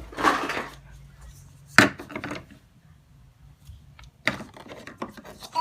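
Knocks and clicks of plastic toy food and toy kitchen pieces being handled: a short rustle at the start, one sharp knock about two seconds in, a few lighter clicks after it, and another couple of clicks near the end.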